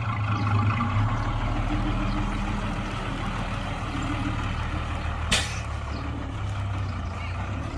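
Heavy diesel truck engine running steadily, with one short sharp burst a little over five seconds in.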